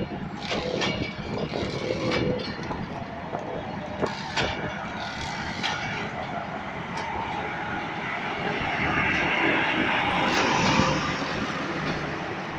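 Pakistan Railways passenger coaches rolling past as the train arrives, a steady rumble of steel wheels on rails with scattered sharp clacks over the rail joints. About nine seconds in, the noise grows louder for a couple of seconds and then eases.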